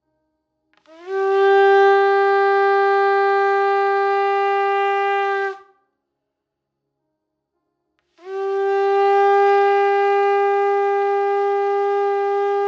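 Shofar sounding two long, steady single-note blasts a few seconds apart, each scooping up briefly into the note as it starts.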